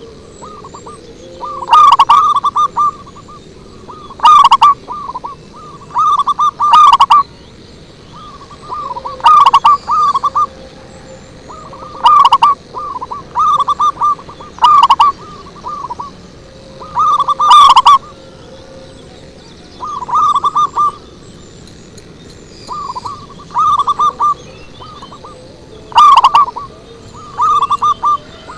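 Zebra dove (perkutut) song: short phrases of rapid, rolling coos repeated every two seconds or so. The phrases are very loud and the strongest ones distort.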